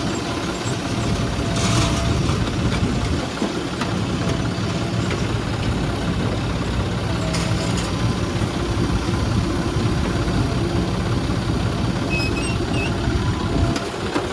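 Heavy diesel engine of earthmoving or farm machinery running steadily, with a couple of short hissing bursts.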